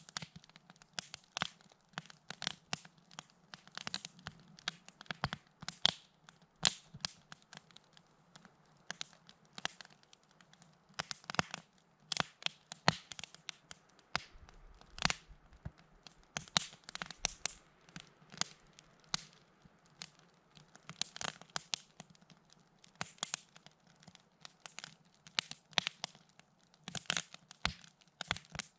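Campfire crackling: burning wood giving off irregular sharp pops and snaps, a few of them much louder than the rest.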